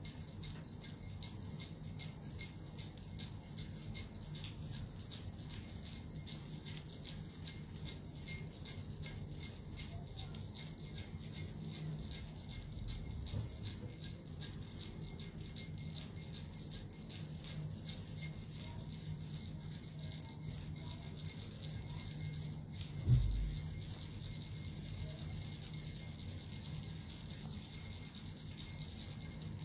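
Suzu bells and a metal rattle shaken continuously in a steady, even jingle. A single low thump sounds about three-quarters of the way through.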